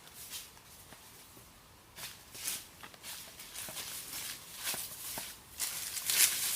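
Footsteps with a crunching, rustling sound, irregular, growing louder about two seconds in and louder still near the end.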